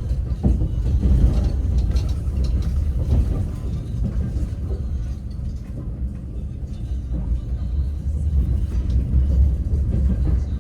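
Passenger train running, heard from inside the carriage: a steady low rumble of the wheels on the rails, with faint scattered knocks.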